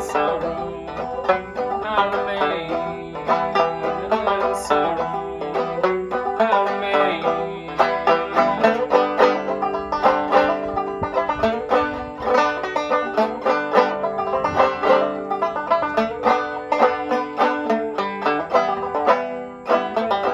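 1913 Fairbanks/Vega Tubaphone banjo playing an old-time tune without singing, a steady run of quick picked notes.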